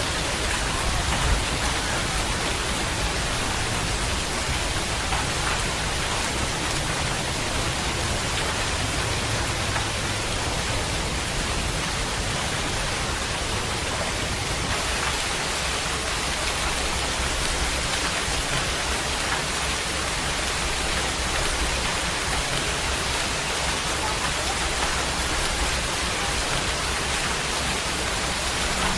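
Steady rain falling, a dense, even hiss with no let-up.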